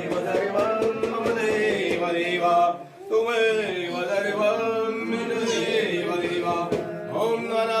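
A man chanting Sanskrit mantras in a sing-song voice during a Hindu puja, with held notes and a short pause about three seconds in.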